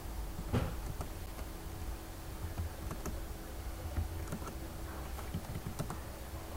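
Typing on a computer keyboard: irregular key clicks, one louder strike about half a second in, over a steady low hum.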